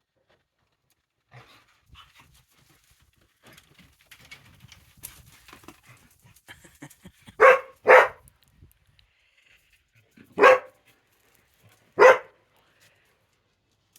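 Dog barking four times: two quick barks in a row about halfway through, then two single barks a couple of seconds apart, with faint scuffling of paws before them.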